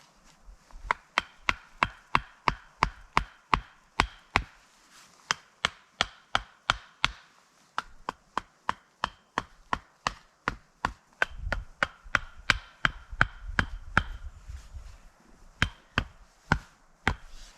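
A knife chopping on a cutting board: a steady run of sharp knocks, about three a second, with a short pause about halfway through.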